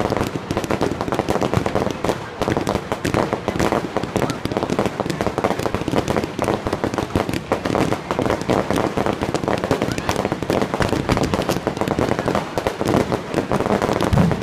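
Fireworks display: a dense, unbroken crackle of many small pops from bursting shells of crackling stars, with a heavier bang near the end.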